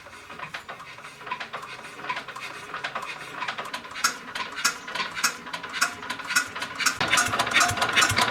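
Rapid, irregular clicking that grows louder, then about seven seconds in a restored diesel engine starts with a low rumble.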